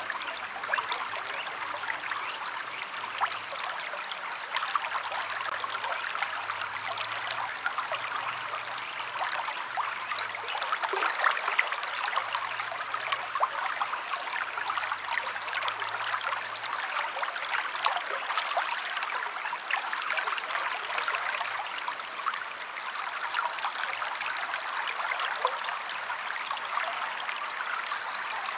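River water flowing steadily, with a dense patter of small splashes and trickles.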